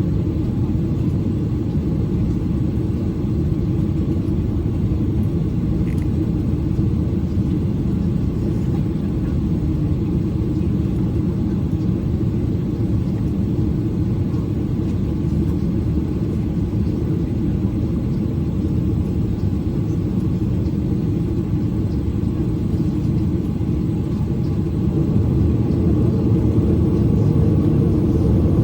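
Steady low rumble of a Boeing 737's engines and airframe heard from inside the passenger cabin, growing slightly louder near the end.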